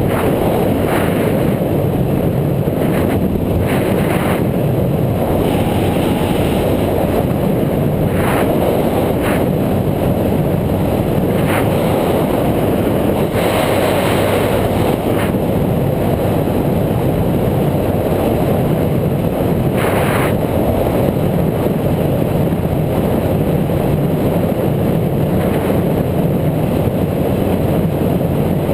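Steady wind rush on the microphone of a bike-mounted action camera, over rumble from the moving bike, with a few short knocks from bumps scattered through.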